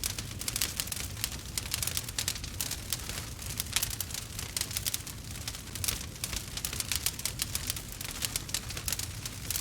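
Burning wood fire crackling and popping: many irregular sharp snaps over a steady low rumble of the flames.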